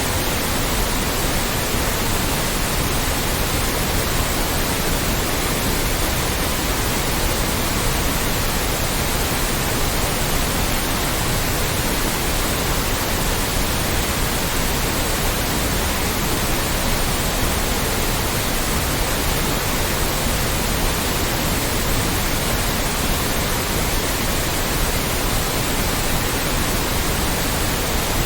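Loud, steady white noise: an even, unchanging hiss spread across all pitches.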